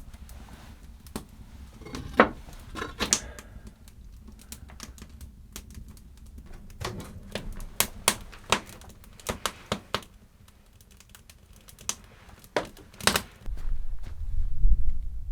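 Irregular sharp clicks and knocks, a few louder ones among many small ones, with a low rumble coming in near the end.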